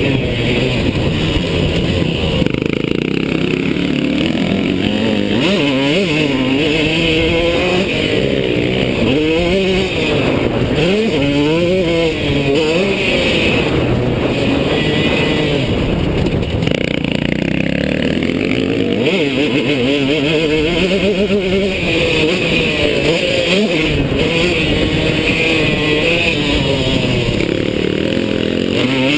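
KTM two-stroke dirt bike engine at race pace, revving up and dropping back over and over as the throttle is opened and closed, heard from a GoPro on the bike or rider.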